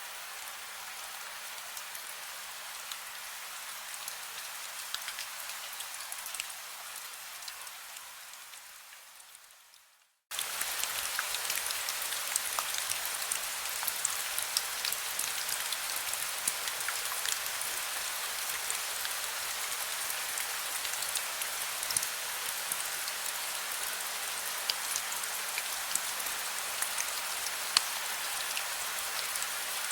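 Heavy rain falling steadily, a dense hiss with individual drops pattering. About a third of the way in it fades out to a moment of silence, then cuts back in suddenly and a little louder.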